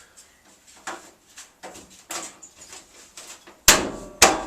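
Metal tools and parts being handled: a string of light clicks and knocks, then two loud clanks near the end.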